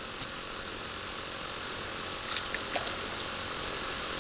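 Steady rush of river water with a steady high-pitched hum over it, and a few faint clicks about two and a half seconds in.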